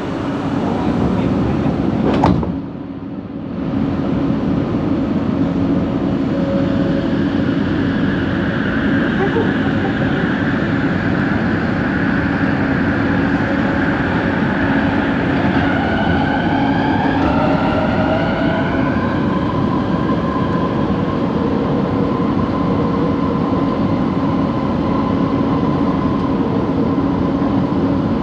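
Train set 70's coach in motion, heard from inside: a steady running rumble with motor whine tones. There is a sharp crack about two seconds in, then a brief dip in the noise, and a group of whining tones that glide and step in pitch around the middle. The uploader takes the motor noise of this coach for abnormal.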